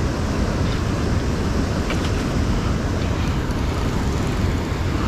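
Steady rushing noise, heaviest in the low end: wind buffeting the microphone over flowing river water.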